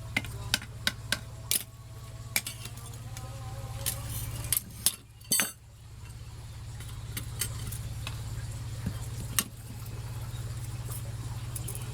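Scattered sharp metallic clinks and taps of tools on steel, several close together at first and a few more later, over a steady low hum.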